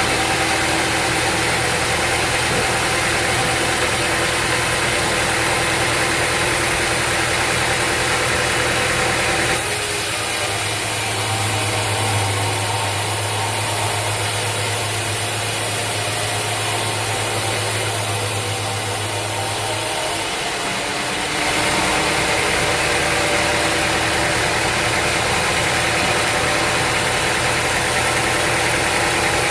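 Sawmill machinery running steadily with a motor hum. From about ten seconds in to about twenty seconds in the sound changes to a deeper, stronger hum, then returns.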